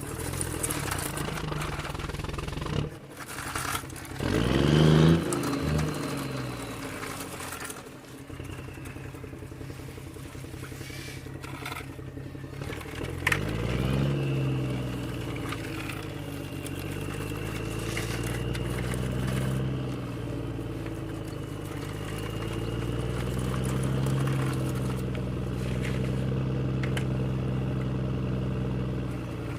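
Engine sound revving and running: a sharp rev about four to five seconds in, another about thirteen seconds in, then a steady drone that swells slowly up and down.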